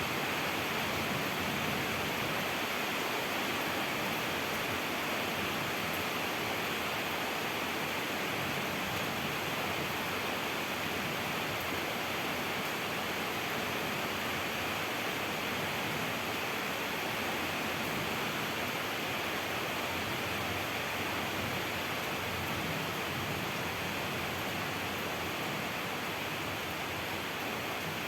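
Steady rainfall: a dense, even hiss of rain with no single drops standing out.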